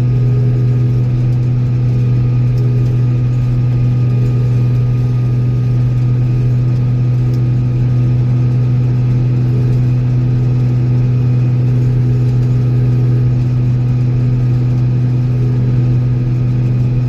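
Old Steiger four-wheel-drive tractor's diesel engine running at a steady, unchanging speed, a constant low drone.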